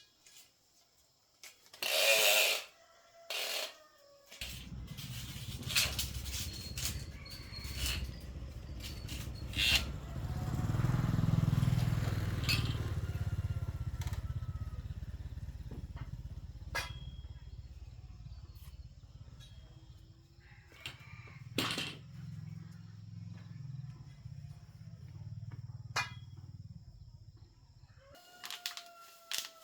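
A small engine starts running about four seconds in, grows louder around eleven seconds, eases back and cuts off near the end. A sharp noise comes just before it starts.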